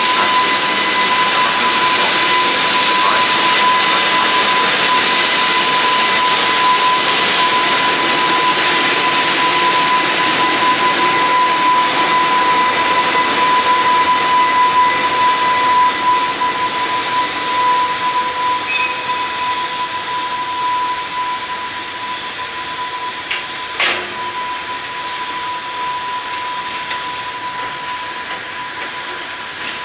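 Freight train rolling slowly past, led by an EH500 electric locomotive, with its running noise and a hiss of wheels. A steady high whine runs through it. The sound is loudest while the locomotive goes by and then eases as the crane and flat wagons follow, with a single sharp knock near the end.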